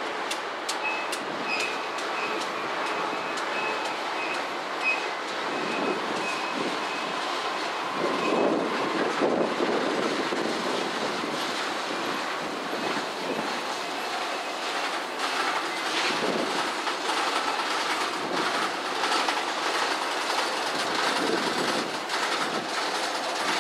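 Freight cars of a passing freight train rolling by on a steel girder bridge: a steady rumble and rattle of wheels with repeated clicks over the rail joints. A faint high squeal comes and goes in the first few seconds, and the noise swells about eight seconds in.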